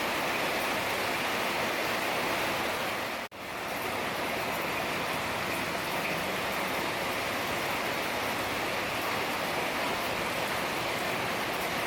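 Heavy rain falling steadily, an even hiss. About three seconds in the sound drops out almost to silence for a moment and comes straight back.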